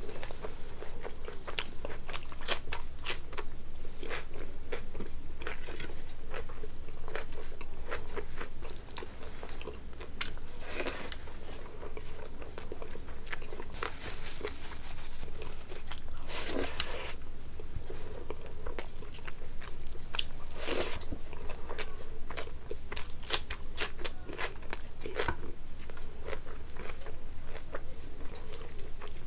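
Close-miked chewing and biting of rice and curry eaten by hand, with crunchy bites and many short mouth clicks. There is a brief rustle of a paper tissue about halfway through.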